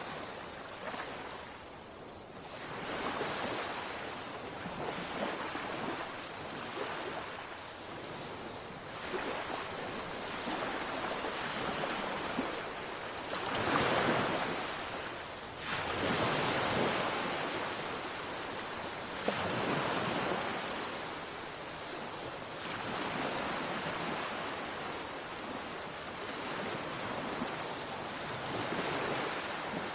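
Sea waves washing onto a shore, each swell of surf rising and falling every few seconds, with a louder wave breaking about halfway through.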